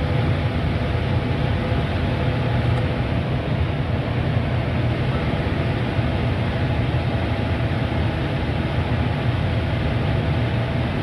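Package air conditioner running: a steady low hum with fan and airflow noise and a few faint steady tones.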